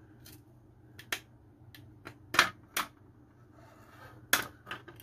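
Small metal hardware parts clicking and knocking against each other as they are handled and fitted together, about half a dozen sharp, irregular clicks.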